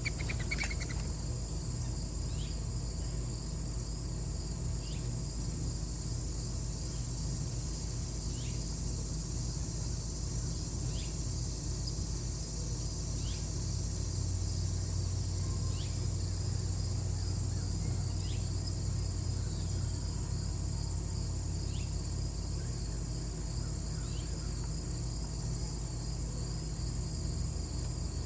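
Steady chorus of crickets or similar insects, a fine pulsing high trill. A short high chirp repeats about every two and a half seconds over a low steady hum.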